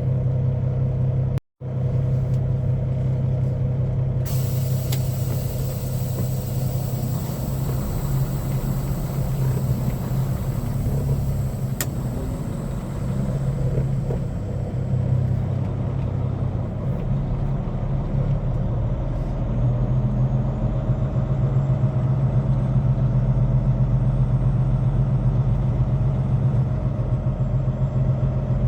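Semi-truck diesel engine running steadily at a low, even hum. About four seconds in a long hiss starts and fades away over roughly ten seconds, with a single sharp click partway through.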